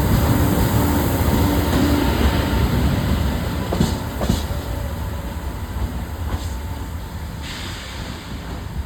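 Locomotive-hauled train running on the rails, a steady rumble that fades gradually, with a few sharp clacks about four seconds in.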